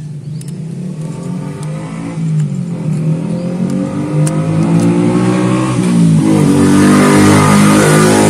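Daihatsu Xenia 1.0-litre three-cylinder engine running and being revved, its pitch rising and falling and getting louder from about two seconds in. It is being tested after a cracked ignition coil that caused a P0303 cylinder-3 misfire was replaced.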